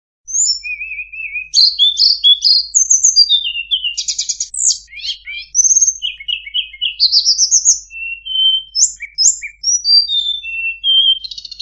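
Song of a tledekan (Cyornis blue flycatcher): a rapid, varied run of clear whistled phrases, quick rising slurs and high trills, starting a moment in and cutting off suddenly at the end.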